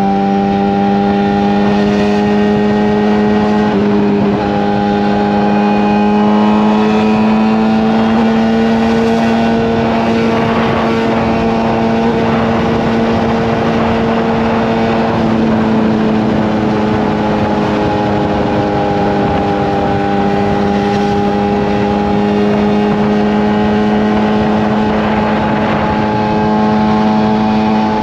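Suzuki GSX-R750 inline-four motorcycle engine with an M4 slip-on exhaust, cruising at a steady highway speed, its pitch drifting only slightly up and down with small throttle changes.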